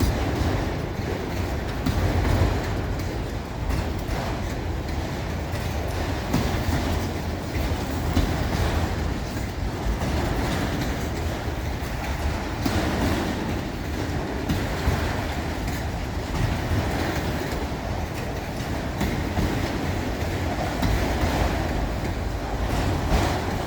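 A train rolling past: steady wheel-on-rail rumble with the clickety-clack of cars over rail joints.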